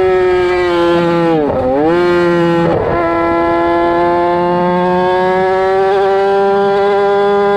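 2007 Yamaha R6 with straight pipes, its inline-four running high in the revs under way, a loud high-pitched wail. The pitch drops sharply about a second and a half in, climbs straight back, and then rises slowly.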